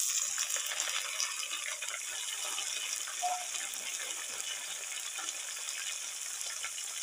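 Sliced button mushrooms frying in hot oil with browned onions, just added to the pan: a steady sizzling hiss that is strongest at first and eases slightly.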